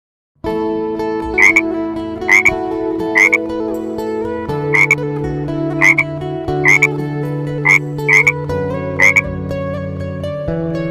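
Nine short croaks at uneven intervals, heard over background music with sustained chords that change every few seconds.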